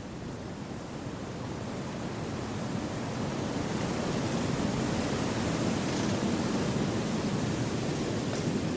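Wind rushing through forest trees: a steady, even rush that swells gradually over the first few seconds and then holds.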